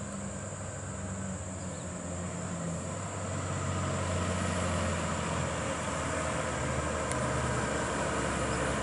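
Heavy truck's diesel engine running, a low rumble that grows steadily louder as it approaches.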